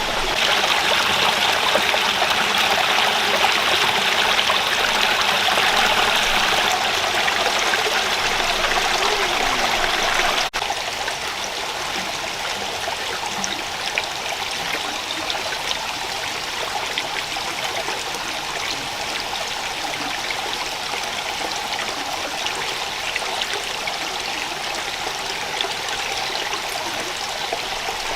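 A rocky stream running steadily over stones. About ten seconds in the sound cuts abruptly, and the water then continues a little quieter.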